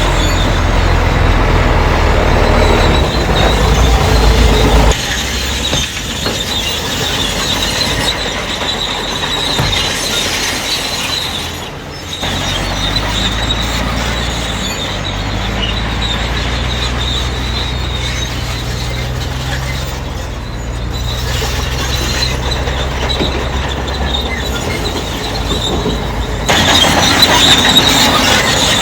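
Crawler bulldozer at work: diesel engine running under load, with a steady high-pitched squeal from its steel tracks. The sound shifts abruptly a few times.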